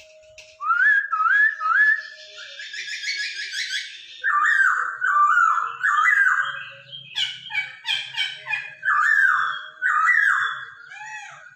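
Chinese hwamei (Hongkong poksay) singing: loud, varied whistled phrases made of quickly repeated notes that rise and fall, strung together in a long run after a brief pause at the start.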